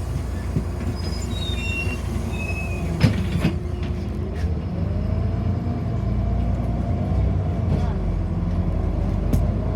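City bus interior: a steady low rumble from the running bus, with two sharp knocks about three seconds in. About four and a half seconds in, a drive whine rises in pitch and then holds, as the bus picks up speed.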